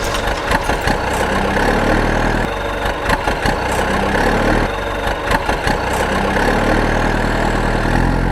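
An engine idling with a rattly clatter. A low hum swells in and fades out several times.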